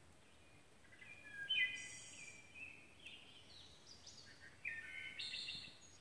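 A songbird singing a long, varied song of quick high notes, starting about a second in and running almost to the end.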